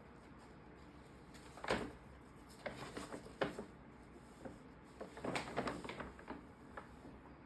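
Paper bag crinkling and rustling in short bursts as a cat plays in and with it. There are several separate flurries of crackling, the longest in the second half.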